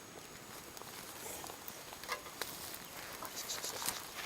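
Scattered faint crackles and ticks from a wood-fire barbecue, over a light hiss, becoming a little busier toward the end.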